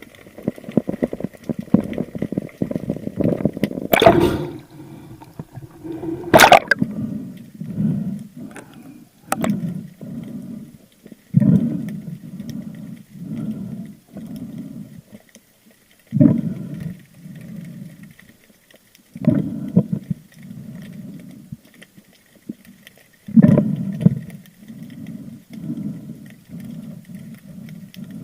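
Water sloshing and gurgling around a spearfisher's camera in the sea, in low surges about once a second, with a sharp splash every few seconds.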